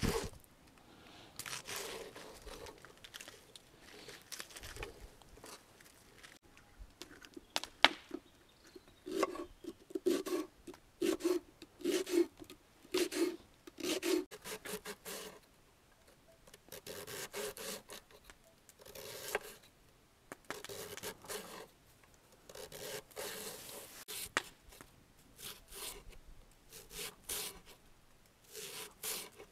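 Repeated rubbing or scraping strokes, coming in bursts with short pauses, with a run of about two strokes a second in the middle and a single sharp click just before it.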